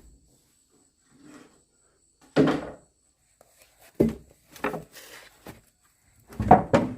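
A series of dull knocks and thuds, as of wooden pieces being handled and set down: one loud thud about two and a half seconds in, a few lighter knocks after it, and a louder cluster near the end.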